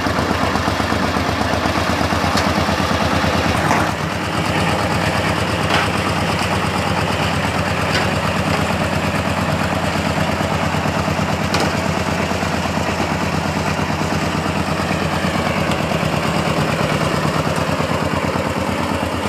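Diesel engine running steadily with a rapid, even knocking pulse, dipping briefly about four seconds in, with a few sharp metallic knocks over it.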